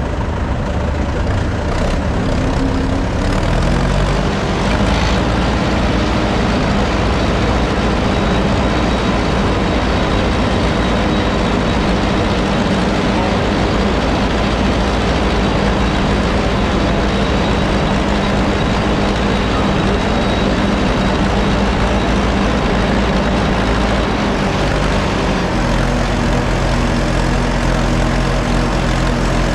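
Antique farm tractor engine running hard under load, as in pulling a weight sled. The revs climb over the first few seconds, hold steady, then drop to a lower pitch about 25 seconds in.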